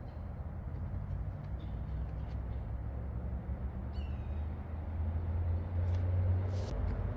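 Steady low rumble of highway traffic passing at a distance, swelling for a couple of seconds near the end, with a short high chirp about four seconds in.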